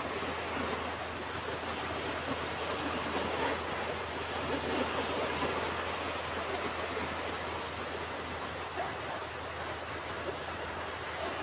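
Ocean waves washing onto a beach, a continuous surf rush that swells and eases gently.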